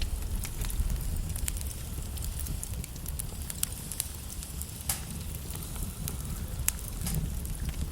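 Wood logs burning in a fireplace, crackling with irregular sharp pops over a low steady rumble of the flames.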